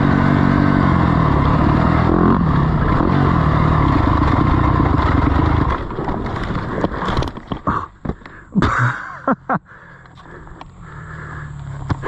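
Off-road engine running hard on a motocross track, revs rising and falling, then dropping away suddenly about six seconds in. A few sharp knocks and scrapes follow, then a quieter engine in the background.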